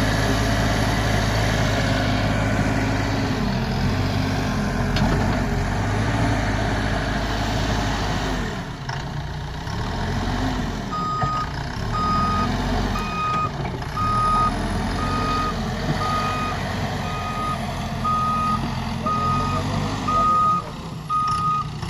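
Backhoe loader's diesel engine running, its pitch rising and falling as it works. About halfway through, a reversing alarm starts beeping steadily, about once a second.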